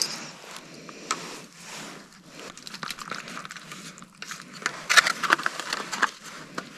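Crinkling and rustling of plastic food packaging, with scattered clicks and scrapes and a burst of sharper crackles about five seconds in.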